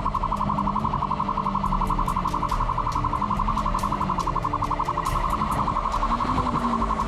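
Police siren sounding a fast, steady pulsing warble, about ten pulses a second.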